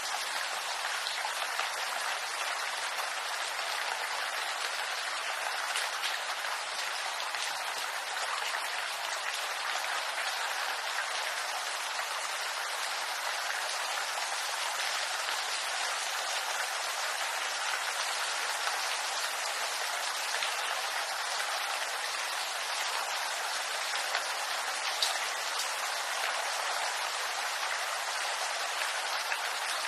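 Steady rain falling on bamboo leaves: an even hiss of many drops, with a few separate drop ticks standing out now and then.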